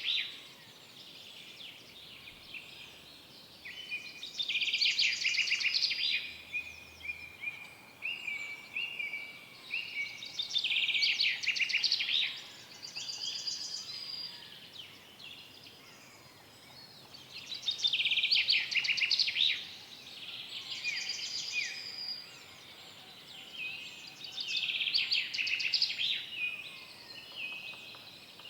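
Forest songbirds singing: one bird repeats a short, loud trilled song phrase about every six or seven seconds, with softer chirps and calls from other birds in between.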